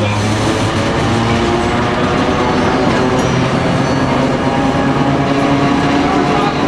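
Street tram running along its rails: a steady, loud rumble with humming motor tones.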